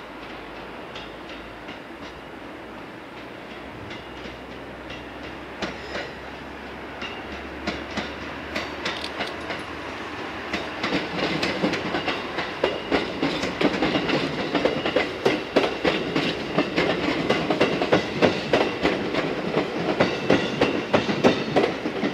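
An electric multiple-unit train, Okayama depot set C01, running in and passing close by. Its wheels clack over the rail joints, the sound growing steadily louder from about eight seconds in and staying loud to the end.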